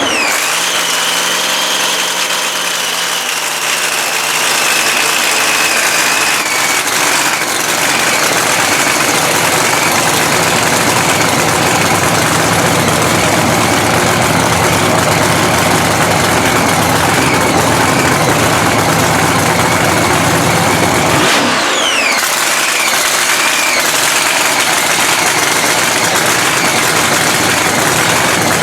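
Freshly rebuilt supercharged Hemi drag engine running loud and steady. A high whine falls in pitch right at the start and again about 21 seconds in as the revs drop.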